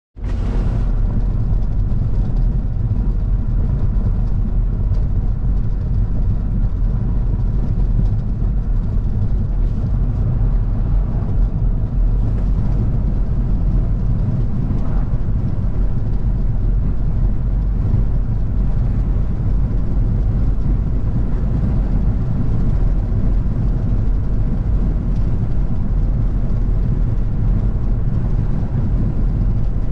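Car driving at a steady speed: a constant deep rumble of engine and road noise.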